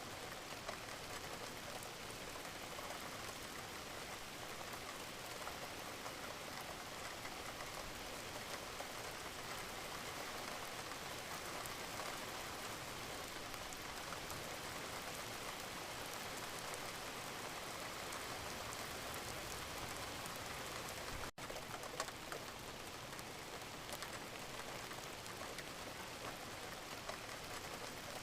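Wood fire crackling steadily with scattered small pops. The sound cuts out for a moment about 21 seconds in, and a louder pop follows just after.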